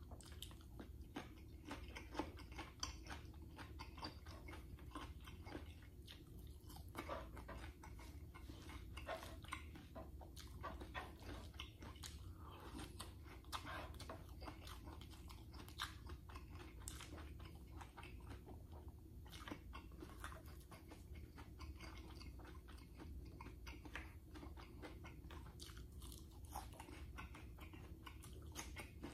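A person chewing and biting food close to the microphone, with irregular crunchy, wet clicks all through, over a low steady hum.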